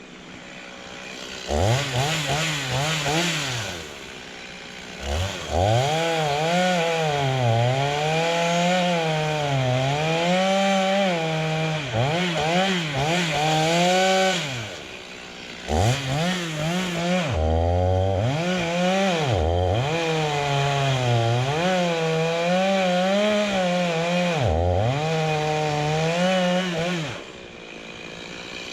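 Two-stroke chainsaw at full throttle cutting into a tree. Its pitch sags and recovers over and over as the chain bites into the wood. It drops back to idle about four seconds in, again around the middle, and near the end.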